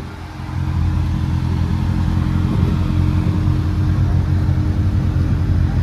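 Car engine idling with a deep, steady exhaust note.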